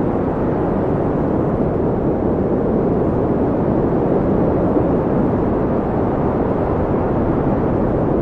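Steady, loud wind noise with a low, deep rush and no gusts or breaks.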